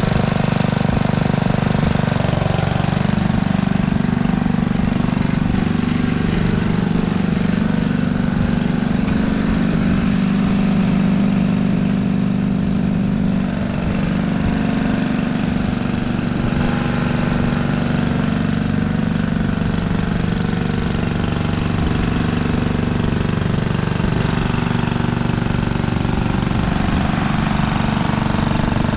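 Simplicity Landlord garden tractor's engine running steadily.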